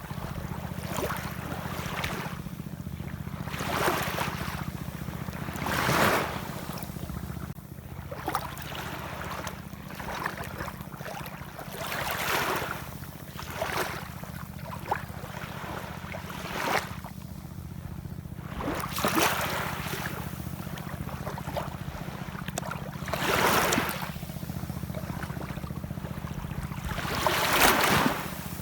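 Ocean waves washing in, one swell after another every few seconds, some louder than others, over a steady low rumble.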